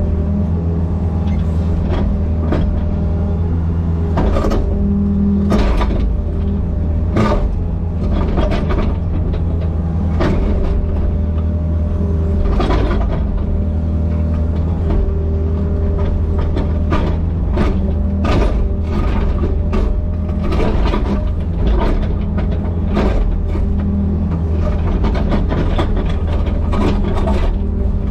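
Excavator's diesel engine running steadily, with repeated sharp knocks and clanks from the machine at work.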